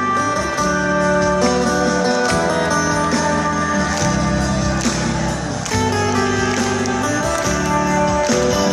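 Live rock band playing an instrumental passage with guitars prominent, held notes over a steady bass line and drums.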